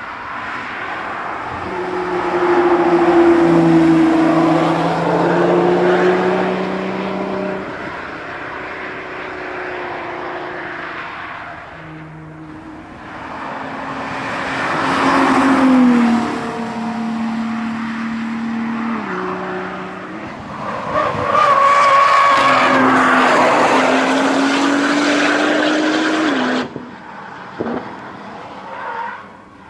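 Camouflaged 2014 Nissan GT-R NISMO prototype's twin-turbo V6 at racing speed, passing several times. The engine pitch rises under acceleration and drops back at each gear change. It cuts off suddenly near the end.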